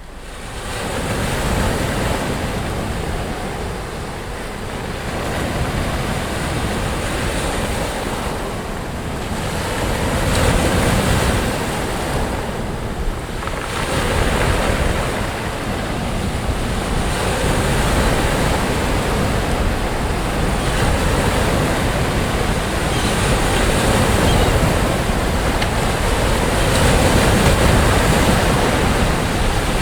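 Sea waves washing onto a beach: a continuous rush of surf that swells and eases every few seconds, with a low wind rumble on the microphone.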